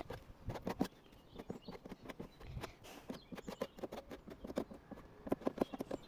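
A series of light, irregular taps and clicks, several a second, with no steady sound underneath.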